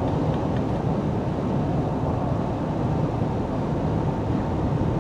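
Steady low road and engine noise inside a car's cabin as it drives down a steep grade.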